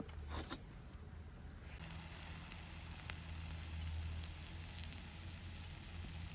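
Food sizzling: a steady frying hiss with a few faint crackles, starting abruptly about two seconds in.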